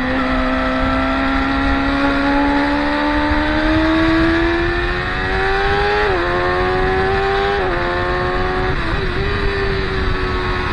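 Racing motorcycle engine at high revs, its pitch sinking a little and then climbing, with three quick dips as it shifts up through the gears, about six, seven and a half and nine seconds in.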